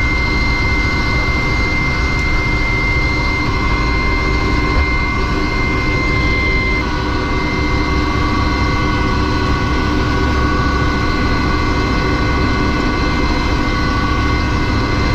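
Rescue helicopter's turbine engines and rotor running steadily: a loud, even rumble with several high, steady whines, one of which drops out about seven seconds in as lower whines come up.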